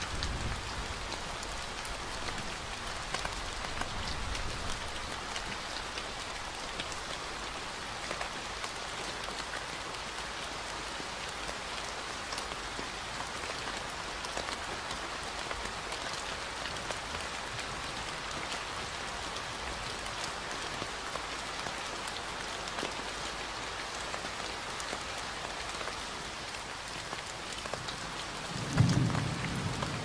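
Steady rain falling on forest foliage, an even hiss with fine drop ticks. A brief low rumble of thunder comes in about a second before the end.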